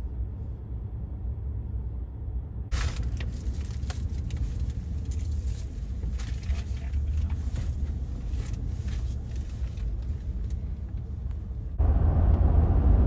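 Highway traffic: a steady low rumble of passing vehicles that turns abruptly louder near the end.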